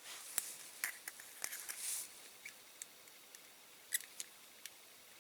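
Faint scattered clicks and light taps from handling a super glue bottle and small tools on a workbench, with a brief soft rustle about two seconds in.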